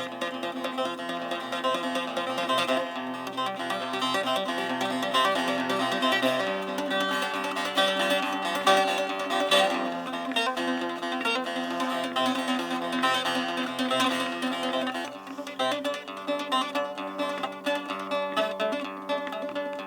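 Improvised music on a plucked string instrument: quick runs of notes over held lower tones, which shift to new pitches twice.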